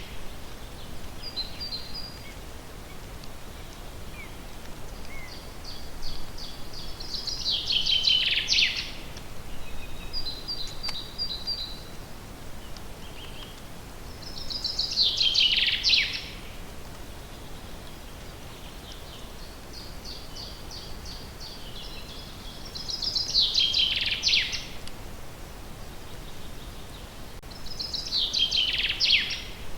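A songbird singing the same song over and over, about every seven seconds. Each song is a run of quick high notes that ends in a louder falling flourish, with fainter short trills between songs and a steady low background hiss.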